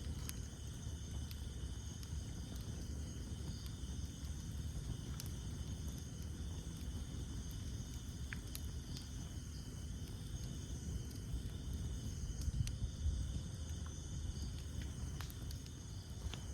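Campfire burning: a steady low rumble of flames with scattered sharp crackles and pops from the burning wood, the strongest a little after the middle. Behind it, a steady high-pitched chorus of night insects.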